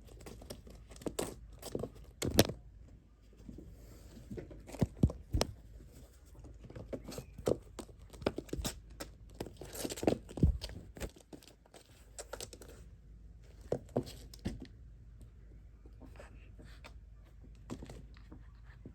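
Kittens playing: irregular scrapes, light knocks and rustles as they scramble, pounce and tumble, with the loudest knocks a little past two seconds, around five and around ten seconds in.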